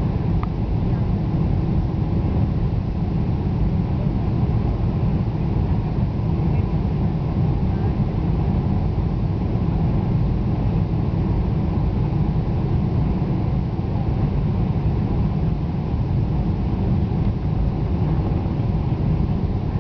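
Steady low rumble of engines and airflow inside a Boeing 747's passenger cabin in flight, unchanging throughout.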